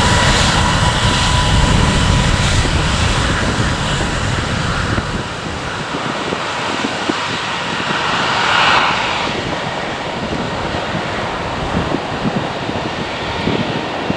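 Departing jet airliner's engines, a deep rumble with a steady high whine, fading over the first few seconds as the aircraft moves away. Gusty wind noise on the microphone follows.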